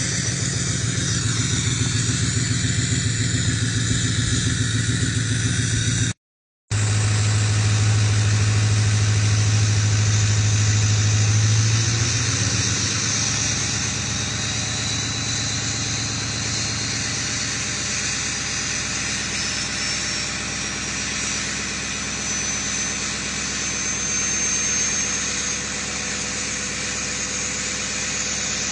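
Ford 6.0 Powerstroke V8 turbo-diesel idling after a cold start, a steady diesel rumble that cuts out briefly about six seconds in and eases slightly lower about thirteen seconds in. A faint high whistle slowly rises in pitch over the second half.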